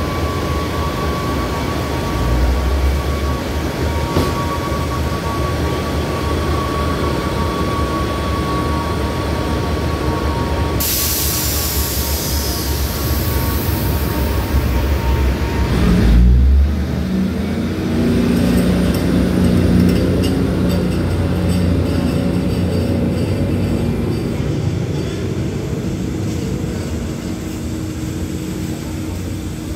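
Diesel multiple-unit passenger train standing at the platform with a steady high tone, then a loud air hiss about 11 seconds in. About 16 seconds in its diesel engines rise as it pulls away, and the sound fades as the train leaves.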